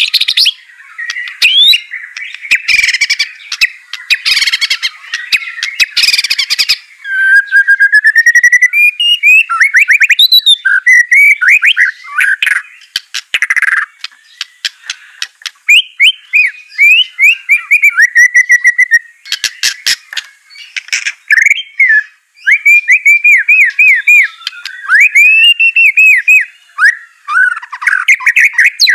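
White-rumped shama (murai batu) in full song: harsh, rapid chattering for the first several seconds, then a varied string of clear whistled slurs, quick trills and stuttering notes.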